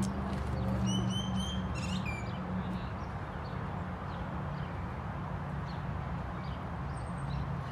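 Birds chirping: a quick run of about four short, high, even whistled notes about a second in, then a falling call, with faint scattered chirps over a steady low hum.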